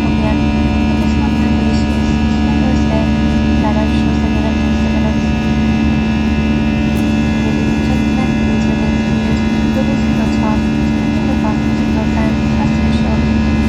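Airbus A321 passenger-cabin noise in flight: the steady drone of the jet engines and airflow, with several constant tones held throughout.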